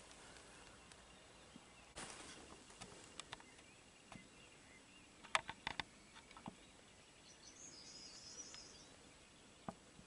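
Faint outdoor ambience: a bird twitters softly for a second or so near the end, and a few sharp clicks come in a quick cluster about halfway through.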